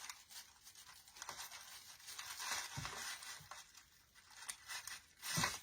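Artificial pine branches and a gold decorative pick rustling and crinkling as they are handled and pushed into the swag, with a louder rustle near the end.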